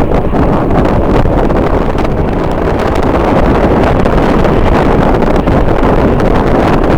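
Strong wind buffeting the microphone: a loud, continuous rumbling rush with no let-up.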